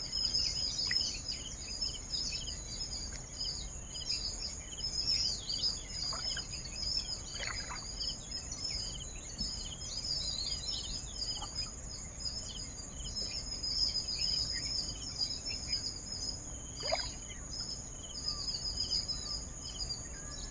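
Outdoor birdsong: many small birds chirping and twittering continuously in the reeds and bushes, with a few louder calls that slide down in pitch, the clearest about 17 seconds in.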